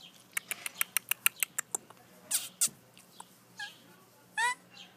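Rough Collie puppy whining, ending in a loud wavering high-pitched whine near the end, after a quick run of about ten sharp clicks.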